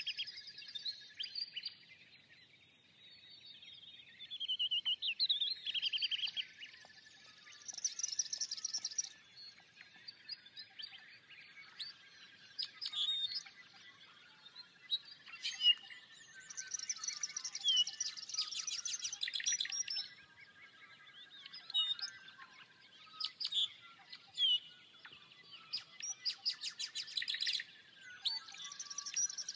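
Several birds chirping and calling, with bursts of rapid high trills every few seconds over a faint steady high tone.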